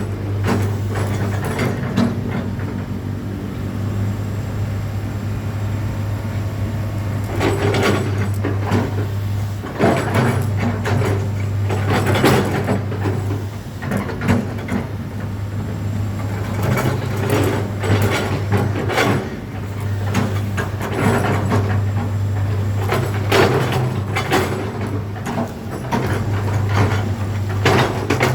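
Komatsu PC200-6 excavator's six-cylinder diesel engine running steadily, with several bouts of clattering, knocking sounds from the machine partway through.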